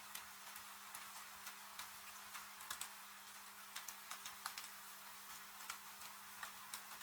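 Wood fire crackling, with irregular sharp pops and snaps over a steady hiss of rain falling. A faint steady low hum runs underneath.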